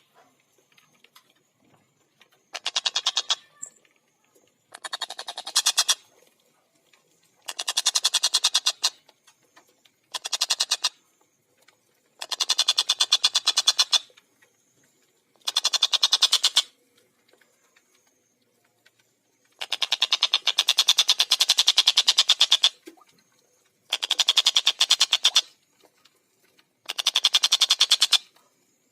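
Tengkek buto kingfisher calling in rapid chattering series of harsh, fast-repeated notes. Each series lasts one to three seconds, with short pauses between them, about nine series in all.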